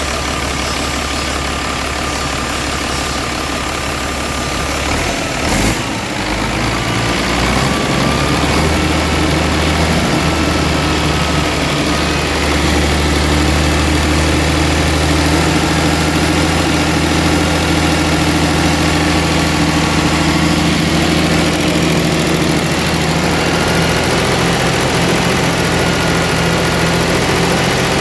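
Mitsubishi 6D22 straight-six diesel engine running steadily. About five and a half seconds in there is a short sharp click, then the engine note rises over a couple of seconds and holds steady at a higher speed, a little louder.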